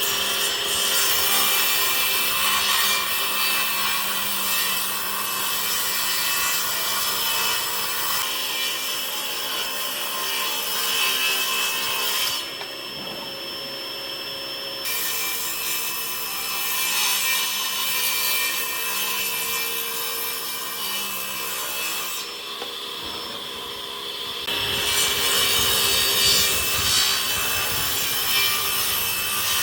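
A tool working wood: a continuous scratchy, rasping noise with a faint steady hum under it. It eases off twice for two or three seconds, about twelve and twenty-two seconds in.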